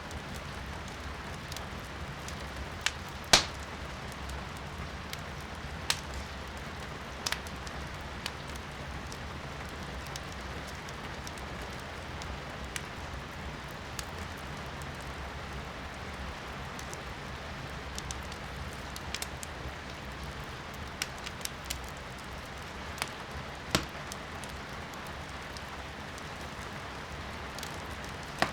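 Firewood burning in a fireplace, crackling and popping with a few sharp snaps scattered through, the loudest about three seconds in and near the end, over a steady hiss of rain heard from indoors.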